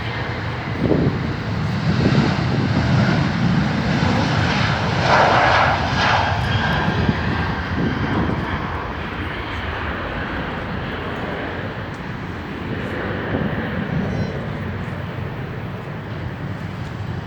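Jet airliner landing, its engine noise rising to a loud rush within the first couple of seconds and then slowly fading as it passes.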